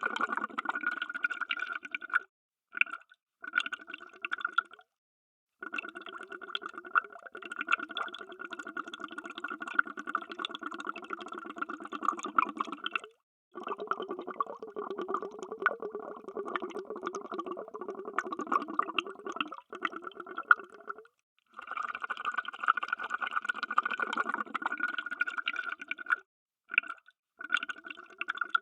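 Underwater bubbles streaming in a dense, continuous bubbling. It stops dead for short gaps several times: near the start, around a quarter of the way in, briefly past the middle, and a few times near the end.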